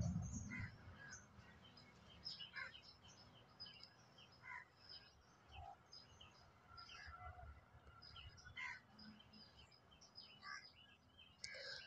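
Near silence with faint, scattered bird chirps in the background and a few soft low thuds.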